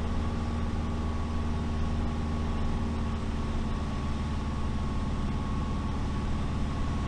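Light aircraft engine running steadily in cruise, heard inside the cockpit as an even low drone with a thin high tone held over it.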